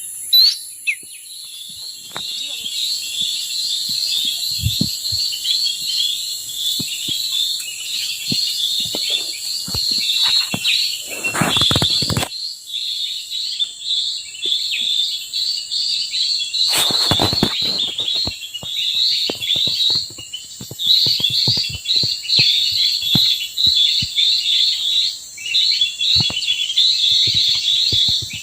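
Small forest birds chirping rapidly and repeatedly over a steady high insect whine. Two brief low rumbles come near the middle.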